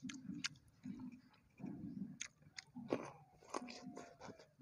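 A person chewing a mouthful of food close to the microphone: quiet, regular chewing with soft wet crunchy clicks, a little faster than once a second.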